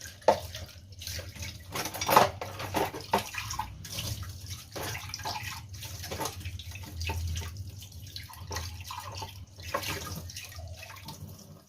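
Dishes being washed by hand at a sink: tap water running and splashing, with frequent knocks and clinks of dishes against each other and the sink, over a steady low hum.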